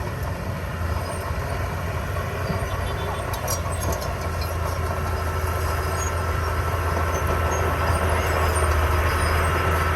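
Diesel engine of heavy construction machinery running steadily, growing a little louder over the last few seconds.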